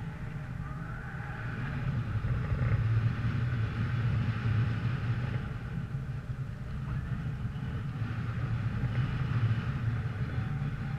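A vehicle's engine running steadily as a low drone, with wind noise on the microphone swelling and easing.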